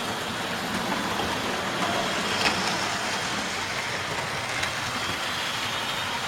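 Old Hornby Dublo model locomotive running on the layout track: a steady rumble of its motor and wheels, with a couple of faint clicks along the way.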